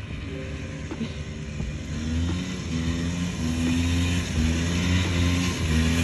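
A car engine running and revving unevenly, getting louder toward the end.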